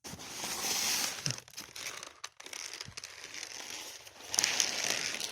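Plastic crinkling and rustling as parts are handled, with a few light knocks.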